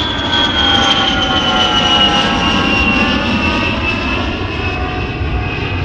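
Aircraft jet engine running, a low rumble under a whine of several tones that fall slowly and steadily in pitch.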